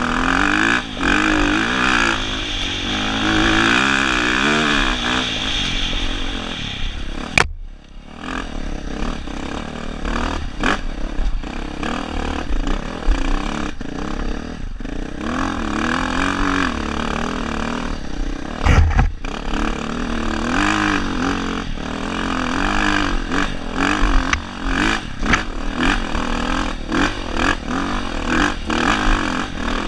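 Dirt bike engine revving up and down as the throttle is worked on a rough trail, with clattering knocks from the bike over the ground. The engine sound dips sharply for a moment about seven and a half seconds in.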